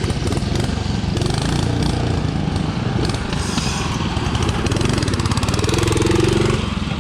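Riding lawn mower engine running under way, loud and pulsing evenly.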